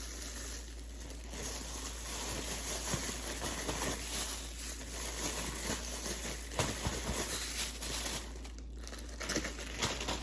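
Plastic packaging crinkling and rustling as raw chicken breasts are handled and split up for freezing, with a few soft knocks about two-thirds of the way through.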